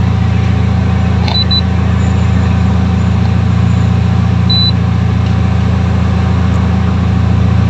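Toyota Vios car engine idling steadily, heard from inside the cabin as a low, even drone. Two short high beeps sound, about a second and a half in and again near four and a half seconds.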